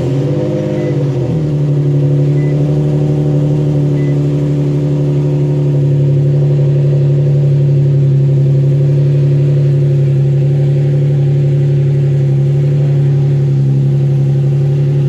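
Nissan 370Z's 3.7-litre V6 idling just after being started, its revs flaring briefly and then settling into a steady idle.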